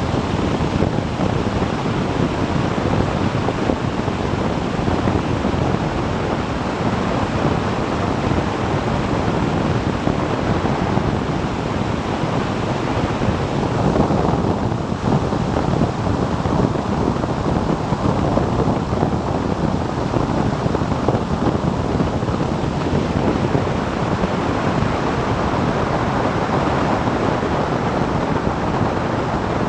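Steady rush of wind over the microphone of a moving motorcycle, with road and engine noise blended into it and no distinct tones or knocks.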